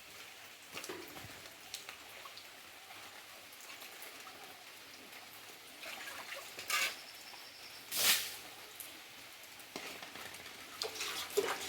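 Steady rain falling and pattering, with scattered small drips and two short louder noises about seven and eight seconds in.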